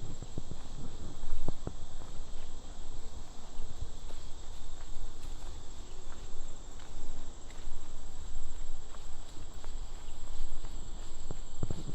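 Insects droning in a steady, unbroken high-pitched buzz, with footsteps on the trail: a few steps in the first two seconds and again near the end.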